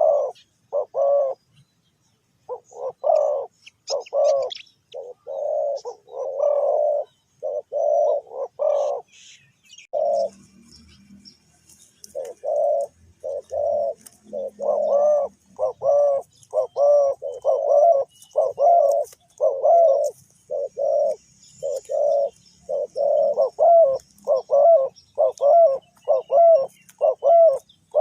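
Spotted dove cooing: short hooting phrases repeated over and over, with a break of about two seconds around ten seconds in. Faint high chirps of small birds sound behind it.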